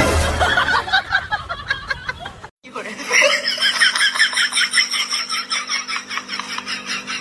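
People laughing, with a brief break about two and a half seconds in; the second stretch is a fast, even string of laughing pulses.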